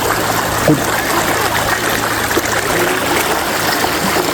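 Shallow rocky river running over stone slabs: a steady babbling, trickling rush of water.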